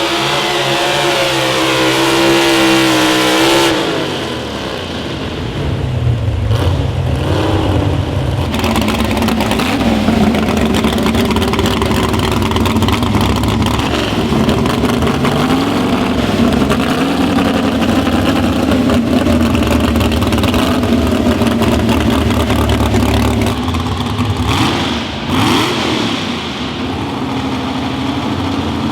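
Pulling vehicle's engine at high, steady revs, which drop off sharply about four seconds in. After that the engine runs at lower revs that rise and fall.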